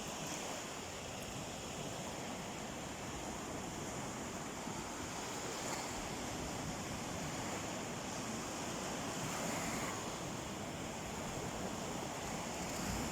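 Sea waves washing onto a beach: a steady surf hiss that swells slightly about nine seconds in.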